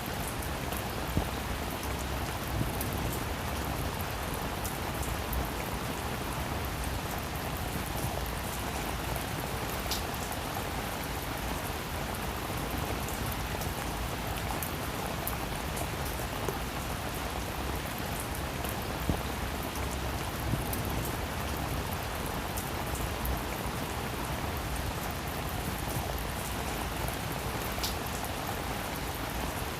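Steady rain falling on a roof, an even dense patter with scattered louder drops ticking.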